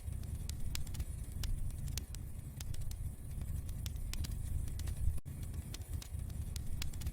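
Wood fire crackling in a fireplace: many small, irregular pops and snaps over a low steady rumble of the flames.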